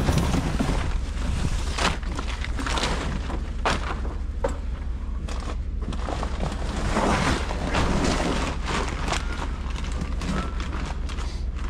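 Strong wind buffeting the microphone, a steady low rumble, with many irregular clicks and knocks over it.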